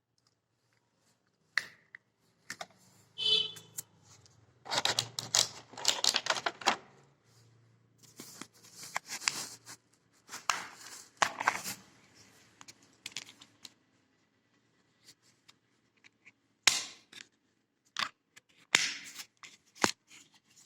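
Parcel packaging being handled and opened by hand: irregular rustling and scraping with sharp clicks, in bursts with short pauses between them.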